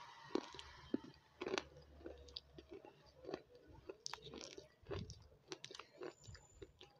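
A person chewing crunchy food close to a clip-on microphone, with irregular small crunches several times a second.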